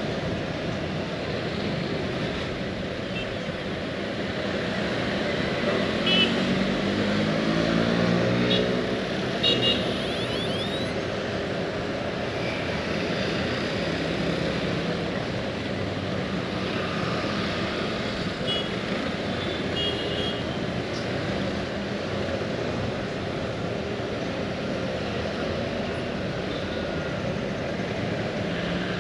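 Steady road-traffic noise, with a vehicle's engine passing close by between about six and ten seconds in, its pitch rising, and a few sharp clicks.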